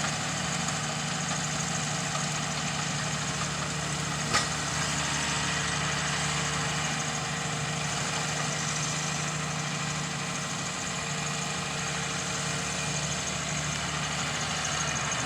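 John Deere 7200R tractor's diesel engine running steadily with an even hum. A single sharp click about four seconds in.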